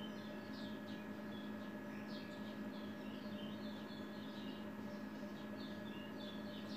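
Faint chirping of small birds, short high chirps scattered throughout, over a steady low hum.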